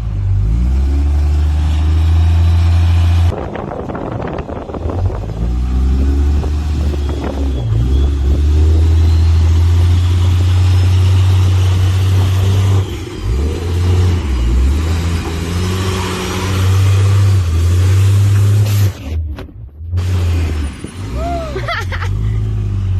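Diesel truck engines running and revving through large exhausts, with the pitch rising during several revs. The sound changes abruptly a few times, with a brief near-dropout shortly before the end.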